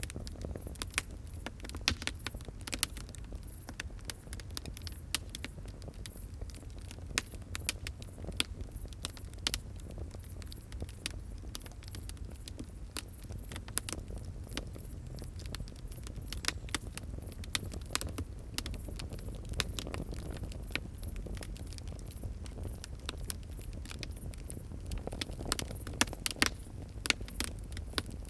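Wood fire crackling: irregular sharp pops and snaps over a low steady rumble of the flames, with a few louder pops near the end.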